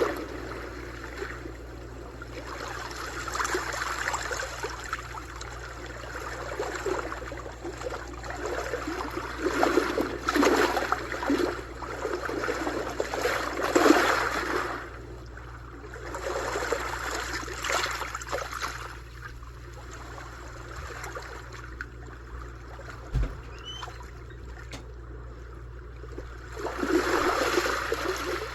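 Sea waves washing in on a shore, swelling and falling away in surges every few seconds, with a quieter lull before one more surge near the end.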